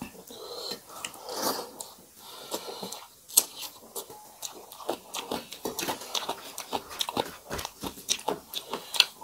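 Close-miked eating by mouth and hand: wet chewing and crunching of mouthfuls of rice with dal and fried vegetables, made up of many short sharp clicks and smacks. A louder click stands out about three seconds in and again near the end.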